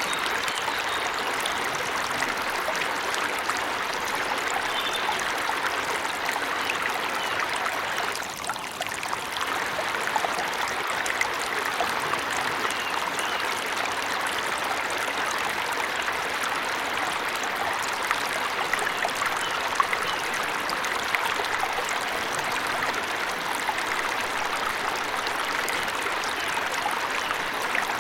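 Waterfall splashing in a steady, even rush of falling water, with a short lull about eight seconds in.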